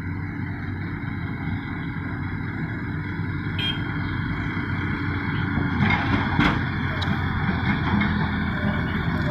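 Timber-laden dump truck's diesel engine running steadily, slowly getting louder, with a couple of sharp knocks about six seconds in.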